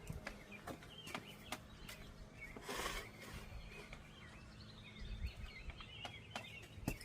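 Scattered light clicks and knocks of hand tools working on bicycle parts, with a short hiss about three seconds in. Birds chirp in the background.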